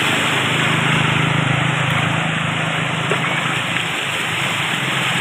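A vehicle engine running with a steady low hum under a loud, even rushing noise, like travelling along a flooded road.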